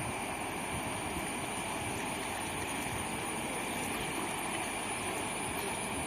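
Steady rushing of flowing water, even and unbroken, with a thin high steady tone running over it.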